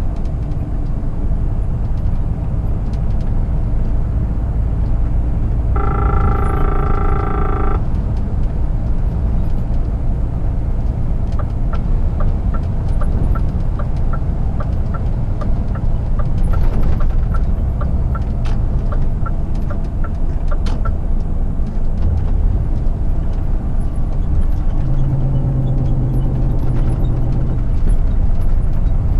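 Scania R450 truck's diesel engine and road noise, steady at cruise. About six seconds in, a pitched tone sounds for about two seconds. Later, a turn-signal indicator ticks about twice a second for roughly ten seconds.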